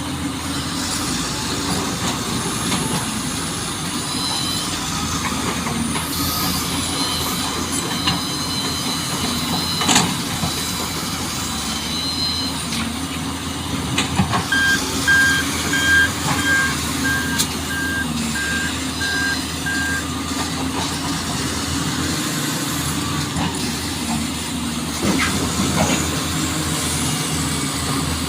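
Heavy truck engine running steadily, with a reversing alarm beeping about twice a second for several seconds midway, and a few sharp knocks, the loudest about ten seconds in.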